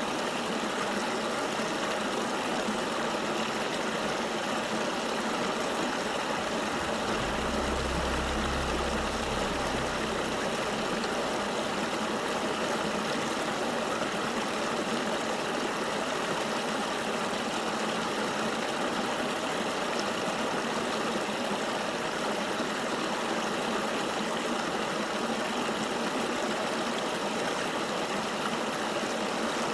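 Flowing river water, a steady, even rushing with no change. A brief low rumble comes in about seven seconds in and lasts some three seconds.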